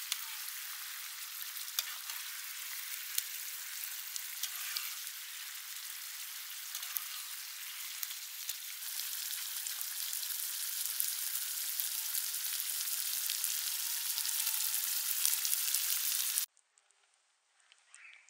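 Seekh kababs in a creamy gravy sizzling in a frying pan: a steady hiss with small pops and crackles. It grows a little louder about halfway through, then cuts off suddenly near the end.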